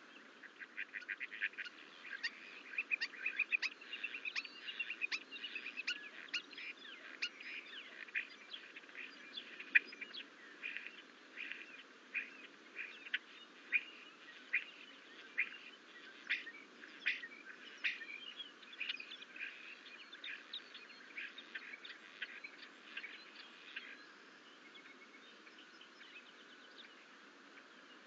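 Bird calls: a fast, dense run of short high chirps, thinning to spaced single chirps that stop near the end.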